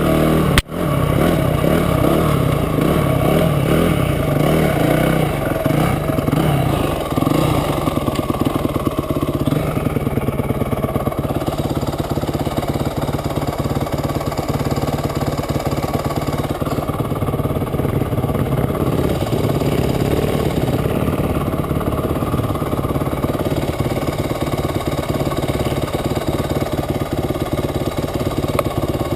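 Motorcycle engine running steadily, with a single sharp click less than a second in; from about seven seconds the engine note becomes smoother and more even.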